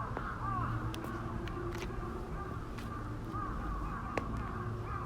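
Birds calling continuously, many short arched calls overlapping, with a few sharp taps scattered among them.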